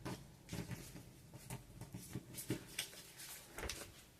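A sheet of paper being handled and folded by hand into a paper glider: quiet, scattered short rustles and crackles of the paper.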